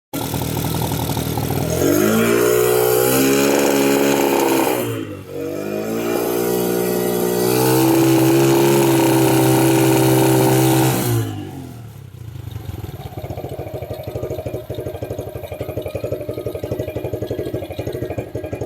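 Sport bike engine revved hard twice through its exhaust. The pitch climbs and holds high for a few seconds, dips sharply about five seconds in, then climbs and holds again. About eleven seconds in it falls away to a lower, steady running with a quick pulsing beat.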